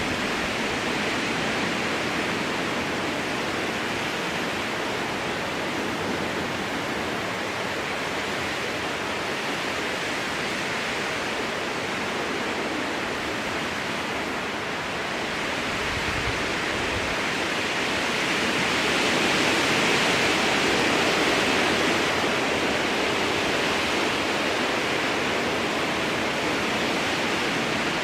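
Strong wind blowing through a spruce forest: a steady rushing of the boughs that swells into a louder gust about two-thirds of the way through, with a brief low rumble shortly before it.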